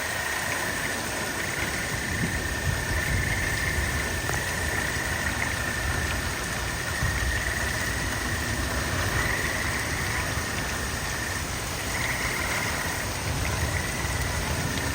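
Frogs trilling in a chorus at one high pitch, the trills swelling and fading in turns, over a steady rush of rain.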